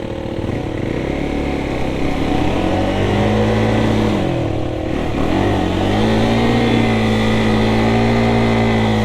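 Motorcycle engine revving hard on a steep, slippery wet-clay climb. The revs rise, drop sharply about five seconds in, then are held high and steady for several seconds as the bike struggles for grip.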